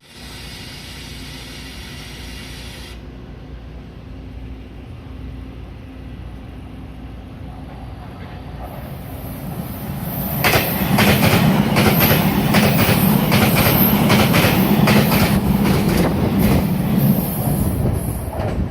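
Taroko Express (TEMU1000) tilting electric train passing through the station at speed. It rumbles in from about eight seconds, then for about seven seconds the wheels go by loudly with rapid clickety-clack over the rail joints, easing off near the end.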